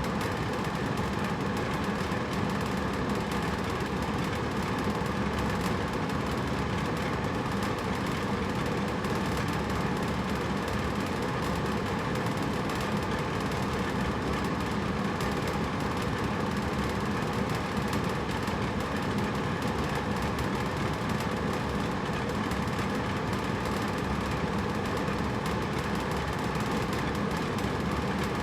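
Hotel room air conditioner running steadily, a constant whooshing hum of its fan and compressor with no change in level.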